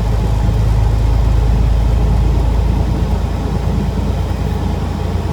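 Diesel engine of a 2000 Freightliner FLD 112 semi truck running steadily on the road, heard from inside the cab with road rumble. Its steady engine note eases into more even rumble about halfway through.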